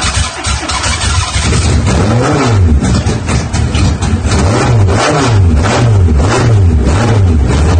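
Brand-new four-cylinder engine with twin side-draft carburettors running on its first start. It runs unevenly at first, then from about a second and a half in it is revved up and down again and again, about every two-thirds of a second.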